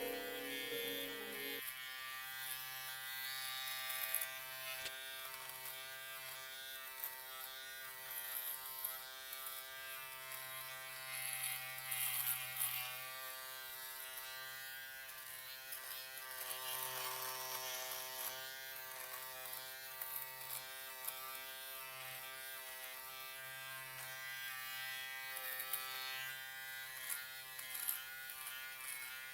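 Electric shaver running steadily, a continuous buzz held without break, played as white noise.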